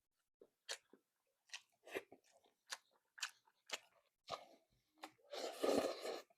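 Close-miked eating of noodle soup: wet chewing and lip smacks as scattered short clicks, with one longer, louder slurp of noodles about five and a half seconds in.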